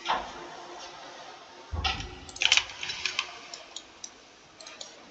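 Computer keyboard keys being pressed in an irregular run of clicks, bunched together about two seconds in and thinning out afterwards, with a dull thump just before the bunch.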